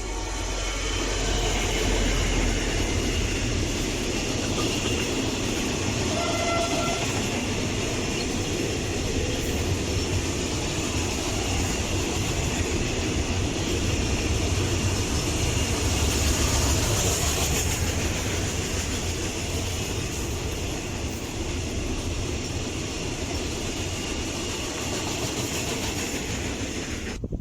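A train passing close by on the rails, a steady loud rumble and wheel noise that lasts nearly the whole time and cuts off suddenly at the end.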